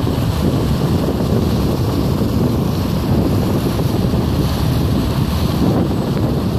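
Steady wind noise buffeting the microphone, a loud, even rumble with no distinct tones.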